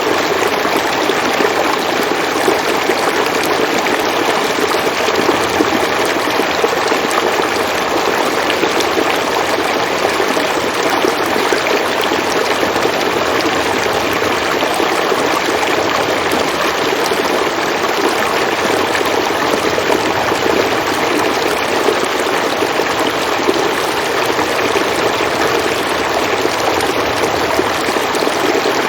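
River water flowing steadily, a continuous even rush of a stream with no breaks or distinct splashes.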